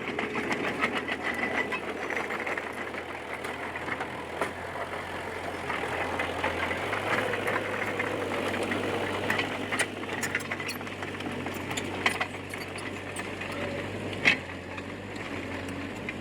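D20P bulldozer's diesel engine running steadily, with rattling and clanking from the tracks and machine, its engine note shifting about six seconds in and a sharp clank about fourteen seconds in.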